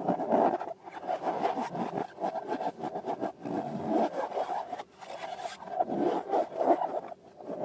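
Irregular rubbing and scraping from hands working rubber balloons and slime, in uneven strokes.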